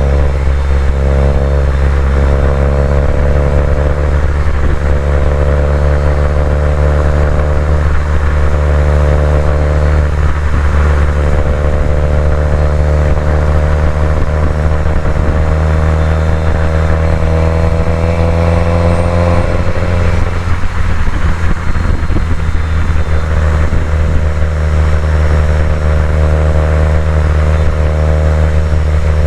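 Subaru WRX STI's turbocharged flat-four engine running under load while driving, a steady low drone with its pitch climbing slowly and dropping back several times.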